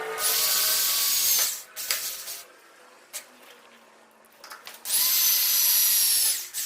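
Power drill run twice in short bursts of about a second and a half, each time whining up to speed and holding steady before stopping.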